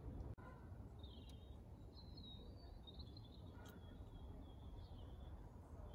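Near silence: faint low background noise with a few faint bird chirps.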